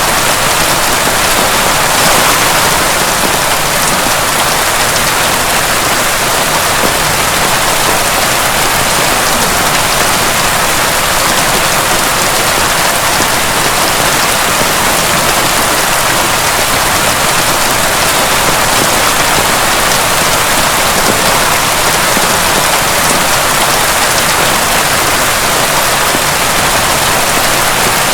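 Heavy rain falling steadily, a dense even hiss of pattering drops with no thunder.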